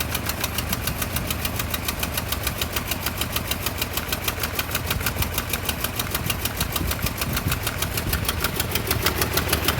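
1988 Toyota pickup's 22R four-cylinder carbureted engine idling roughly after a head gasket replacement, with an even pulsing of roughly eight beats a second that grows a little louder near the end.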